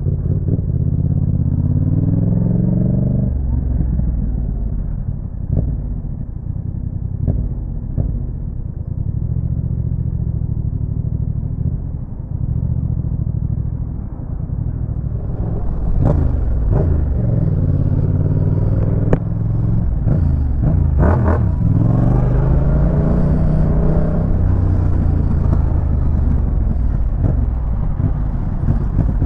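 Yamaha MT-07's 689 cc parallel-twin engine through a Roadsitalia aftermarket exhaust, revving up and dropping back repeatedly while riding, with the pitch climbing and falling between gear changes.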